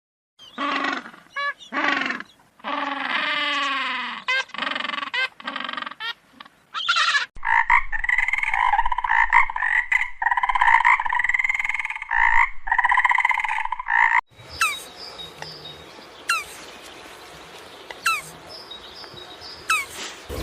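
Frog calls in three abruptly changing stretches. First comes a run of short croaks of varying length, then a dense pulsing trill, then sharp falling chirps about every second and a half over a steady faint chorus.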